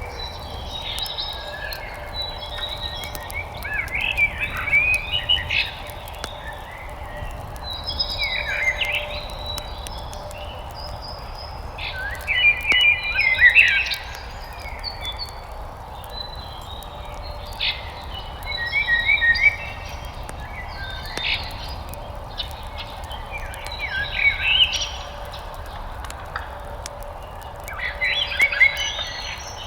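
A songbird sings a short, fast, warbling phrase every few seconds over a steady low background hiss, with faint scattered crackles from a wood fire.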